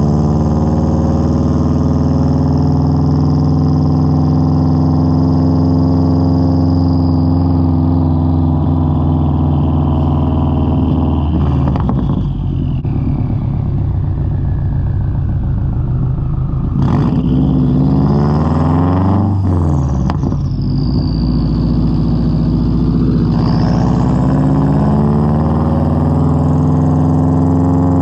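2003 Subaru WRX's turbocharged flat-four running through a straight-pipe exhaust under light driving, loud and steady. Past the middle the engine note climbs and then drops back, with a further change in pitch a few seconds later as the car is driven through the gears.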